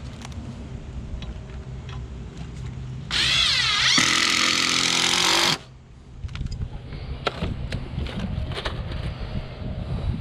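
Power drill running for about two and a half seconds, its whine rising as it spins up and then holding steady. Around it, low wind rumble on the microphone and a few light knocks.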